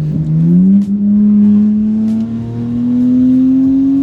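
BMW 335i's N54 twin-turbo inline-six, straight-piped from the turbos back with only catless downpipes, accelerating under load: the engine note climbs quickly in the first second, then keeps rising slowly and steadily.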